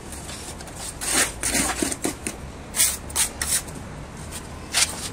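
A series of short rasping scrapes, each under half a second, in irregular bunches over steady background noise.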